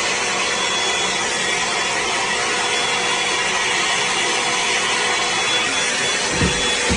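Steady rushing machine noise at a constant level, with a faint high whine running through it, like a motor-driven appliance or tool running; a brief low thump comes near the end.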